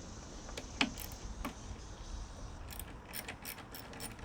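Scattered small metallic clicks and clinks of hand tools and parts as a lawn mower's carburetor and fuel line are worked on, with a sharper click a little before a second in and a quick run of lighter clicks past the middle.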